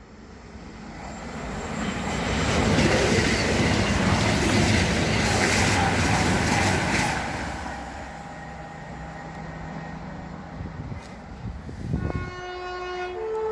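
A train passing through at speed: the rush of its passing builds over the first few seconds and dies away after about seven. A steady low hum follows, and near the end a train horn sounds and holds.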